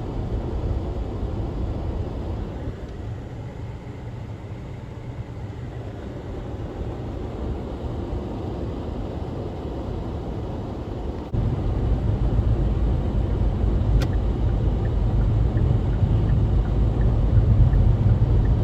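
Road and engine noise heard inside a moving car: a steady low rumble that suddenly gets louder a little past halfway, with a single click a few seconds later.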